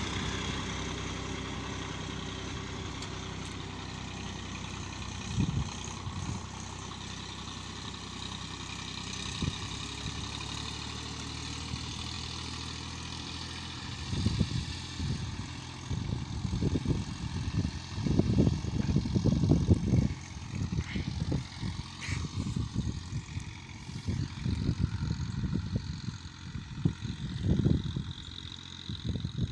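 Massey Ferguson 1035 DI tractor's three-cylinder diesel engine running steadily, with irregular low rumbles coming in from about halfway through.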